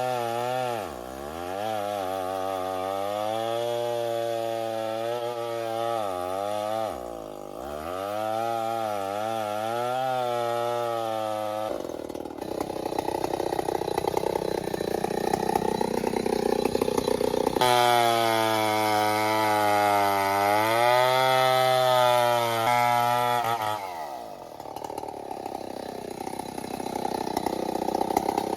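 An engine running at high revs, dropping sharply and picking up again about a second in and around seven seconds. In the middle it runs rougher and noisier for several seconds, then goes back to steady pitched running with another drop near the end.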